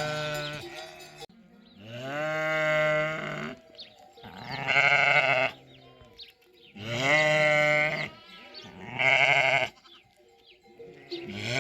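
Sheep bleating: five long calls in turn, alternating between a lower, falling bleat and a higher, quavering one.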